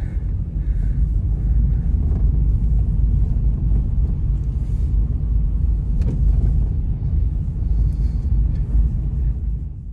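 Strong blizzard wind blowing, heard as a steady low rumble buffeting the microphone.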